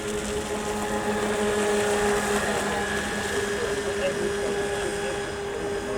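Radio-controlled model boat's electric motor running with a steady whine.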